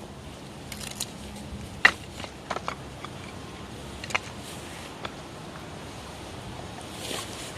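Firewood being split and handled: a few sharp wooden knocks at irregular intervals, the loudest about two seconds in and a quick run of three soon after, with a soft rustle near the end.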